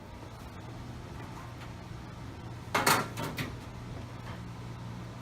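Extra-large low-grain dehumidifier running just after being plugged in: a steady hum over an even rush of air, with a sharp clack about three seconds in.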